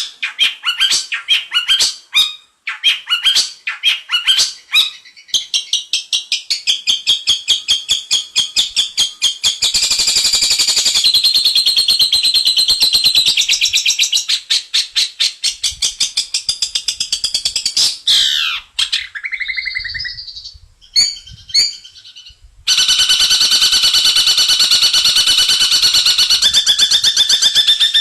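Long-tailed shrike (cendet) singing: fast runs of repeated sharp, chattering notes. A falling slur comes about two-thirds of the way through, then a short quieter patch. A long, fast, even trill fills the last few seconds.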